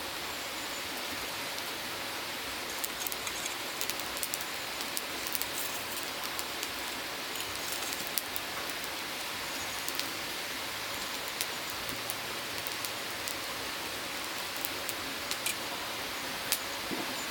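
Grilling over a wood-made charcoal fire: a steady sizzle with scattered sharp pops and crackles throughout.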